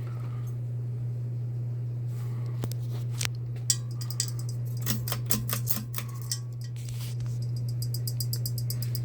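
Bahama 42-inch ceiling fan running with a steady low motor hum. Scattered sharp clicks come through the middle, and a fast, even ticking starts near the end.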